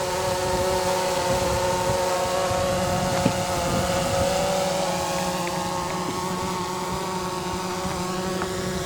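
Radio-controlled model airplane's motor and propeller droning at a steady pitch that sags slowly as the plane comes in to land, with wind buffeting the microphone and a single sharp click about three seconds in.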